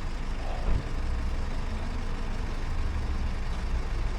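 Steady low rumble of a vehicle engine idling, with a single short thump about three-quarters of a second in.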